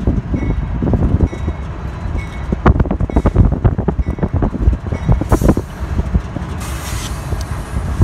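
Several Union Pacific diesel locomotives leading a freight train approach and rumble past, with uneven low buffeting from wind on the microphone. A brief hiss comes about five seconds in, and again around seven seconds.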